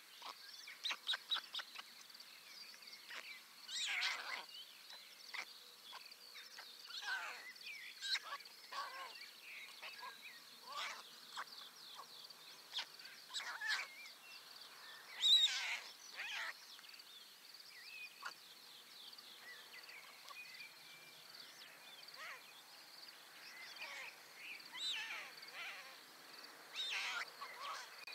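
Birds calling: a scatter of short chirps and calls, the loudest about halfway through, over a thin steady high-pitched tone.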